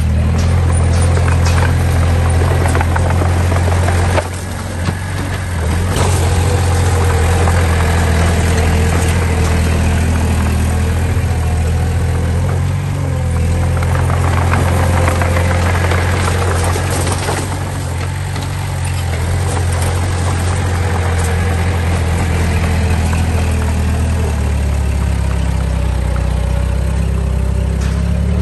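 Heavy diesel engine of earthmoving machinery running steadily at a low, even pitch, with scattered clanks. The level dips briefly about four seconds in.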